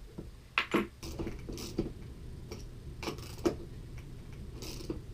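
Irregular metal clicks and knocks of a half-inch socket working the axle nuts on skateboard trucks, fitting the wheels. The sharpest knocks come about half a second in and again around three seconds in.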